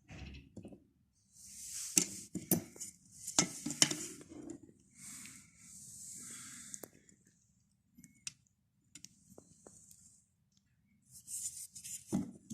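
A steel knife being handled and worked: sharp metallic clicks and knocks mixed with short hissing scrapes, busiest a couple of seconds in and again near the end.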